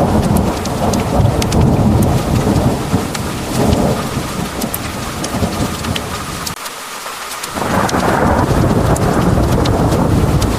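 Heavy thunderstorm: pouring rain with many sharp drop ticks over a deep, continuous rumble of thunder. The rumble drops out abruptly for about a second a little past the middle, then comes back.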